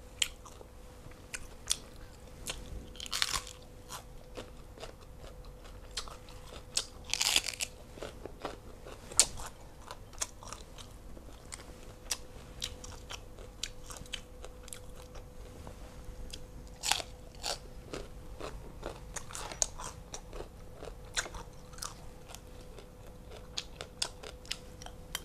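A person eating close to a clip-on microphone: a run of small wet chewing clicks with a few louder crunchy bites, about three, seven and seventeen seconds in.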